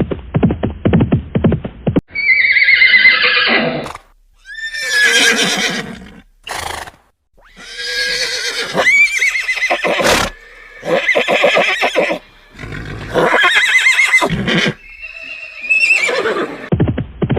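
A string of horse whinnies, about seven separate neighs of a second or two each, with a quavering pitch that falls away at the end. Rapid, even hoofbeats clop for the first two seconds and start again at the very end.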